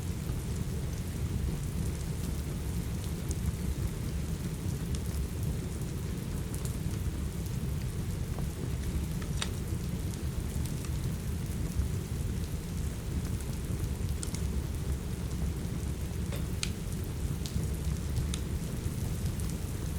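Steady rain with a heavy low rumble, mixed with the sharp pops and crackles of a wood fire in a fireplace every few seconds.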